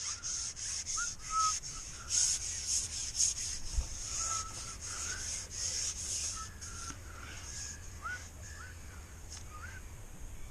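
A rhythmic rasping, rubbing sound, about three or four strokes a second, fading out after about seven seconds. Short whistled bird calls with rising hooks come through over it.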